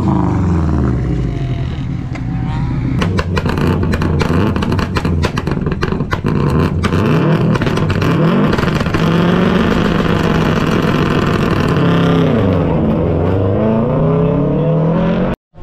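A car engine being driven hard through a slalom run, revving up and dropping back again and again as it accelerates and slows between gates, with a scatter of sharp clicks about three to seven seconds in. It cuts off suddenly near the end.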